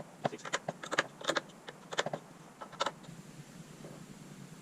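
Irregular light clicks and taps of small hardware and hand tools being handled at a workbench, busiest in the first three seconds and sparser after.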